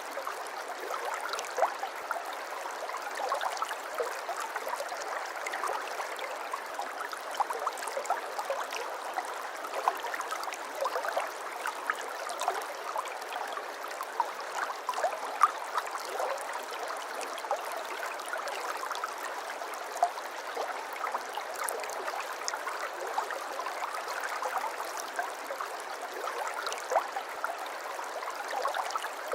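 Flowing water trickling and babbling steadily, with many small splashes and plinks.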